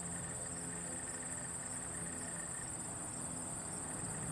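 Crickets chirping in a steady high trill, over a faint low hum.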